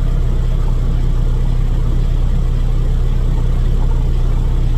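Semi-truck's diesel engine idling: a steady, even low hum.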